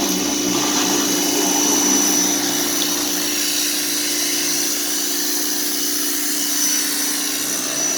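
A motor-driven machine running steadily, a constant pitched hum with a faint high whine above it.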